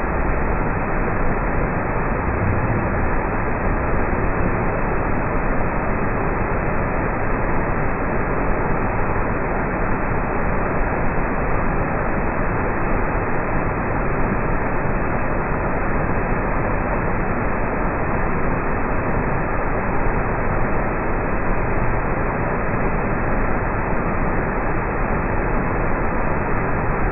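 Waterfall in flood from a flash-flood surge of water: a loud, steady rush of falling and churning water.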